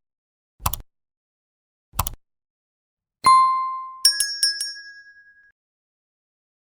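Sound effects: two short clicks, then a single ringing ding that fades away, then a quick run of four tinkling bell strikes.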